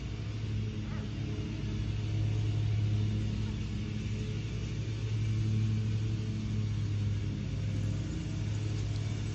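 Steady low engine hum, like a motor vehicle idling close by, swelling slightly a couple of times without changing pitch.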